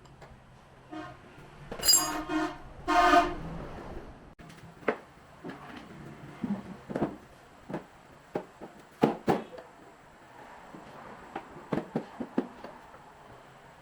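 Two short horn-like honks, then scattered light clicks and knocks.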